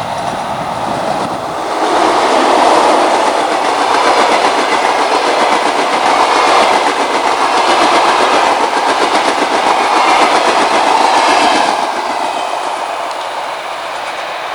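Electric train on Russian DC-electrified track passing at speed, wheels clattering over rail joints. It swells about two seconds in and eases off near the end.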